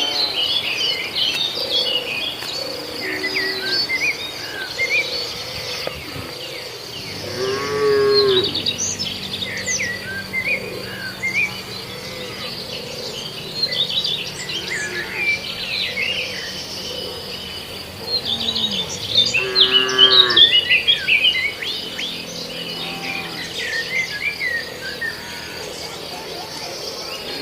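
Cattle mooing, with two clear, drawn-out moos about eight and twenty seconds in and a fainter one shortly after, over birds chirping and a steady high insect buzz.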